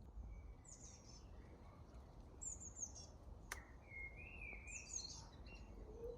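Garden birds singing faintly in short, high chirping phrases, three times, with a lower warbled phrase just after a single sharp click about halfway through.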